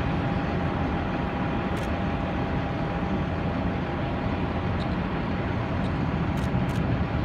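Steady engine rumble and hiss, with a faint steady whine that fades out over the first few seconds.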